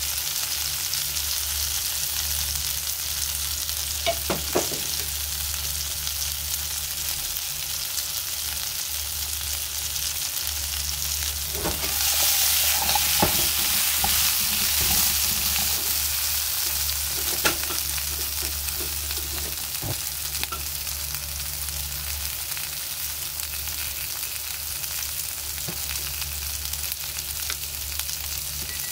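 Potato chunks frying in butter in a frying pan, a steady sizzle over a low hum. About twelve seconds in they are stirred with a metal spoon: the sizzle swells for a few seconds and the spoon knocks against the pan several times.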